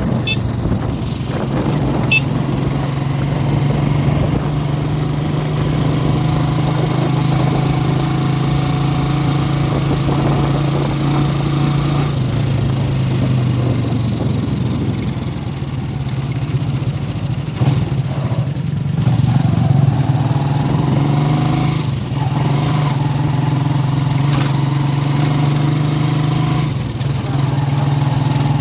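Small motorcycle engine running steadily while the vehicle rides along, heard from on board, most likely the motorcycle of a tricycle with a sidecar. Its pitch drops and comes back up a couple of times partway through as it slows and speeds up.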